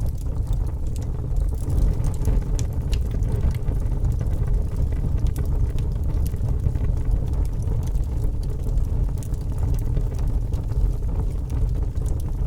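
Wood fire burning in a fireplace: a steady low rumble with frequent small crackles and pops scattered throughout.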